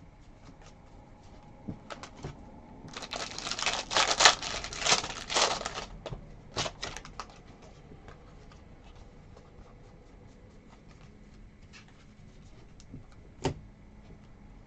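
Foil card-pack wrapper being torn open and crinkled for about three seconds, with scattered light clicks and taps of cards being handled before and after.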